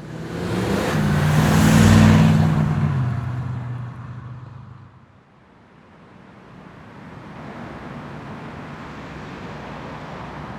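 A car passes close by, loudest about two seconds in, its engine note dropping in pitch as it goes away; quieter street traffic then builds up again.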